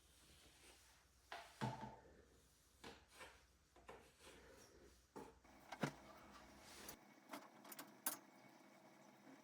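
Faint, scattered light clicks and knocks, as of household objects being handled, with the sharpest knock about six seconds in and a few quick clicks about eight seconds in.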